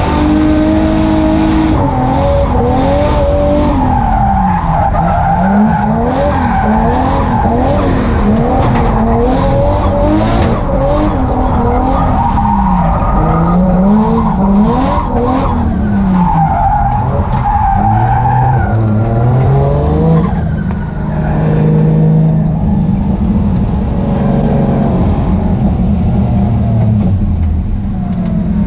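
Nissan 240SX's swapped Toyota 1JZ inline-six revving up and down again and again through a drift run, the pitch rising and falling roughly every second, with tyres skidding. About twenty seconds in, the revs settle to a steadier, lower note.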